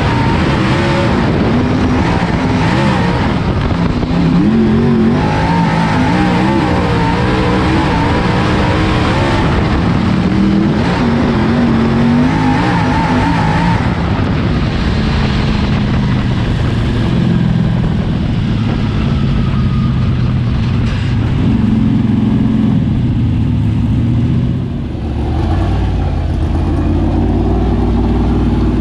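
Dirt super late model race car's V8 engine running hard on track, its pitch rising and falling with the throttle. About 25 s in it dips briefly, then settles into a lower, steadier drone.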